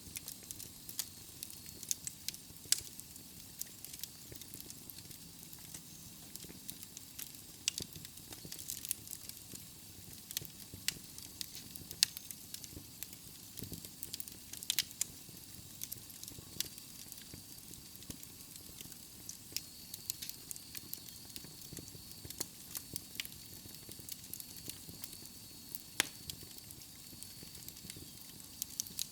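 Wood fire burning in a fireplace: a steady soft hiss with frequent irregular crackles and sharp pops from the logs.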